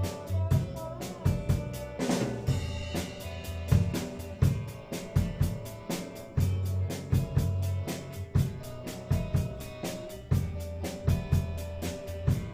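A band playing a song: a drum kit keeps a steady beat on kick, snare and hi-hat under sustained bass notes and guitar, with a cymbal crash about two seconds in.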